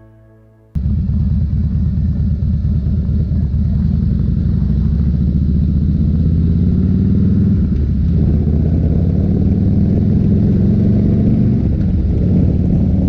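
Motorcycle engine running steadily on the move, coming in suddenly under a second in as fading intro music ends.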